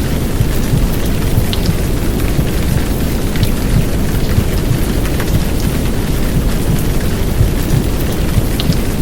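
Heavy downpour rain mixed with a low, dense womb-sound rumble and white noise, steady, with faint scattered drop ticks in the hiss.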